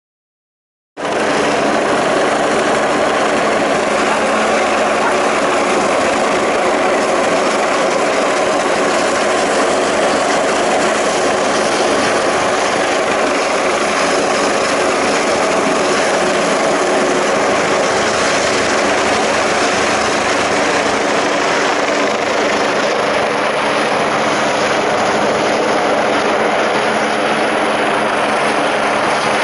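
Sécurité Civile Eurocopter EC145 helicopter running steadily at close range: a dense turbine-and-rotor noise with a few steady tones in it. The sound cuts in abruptly about a second in.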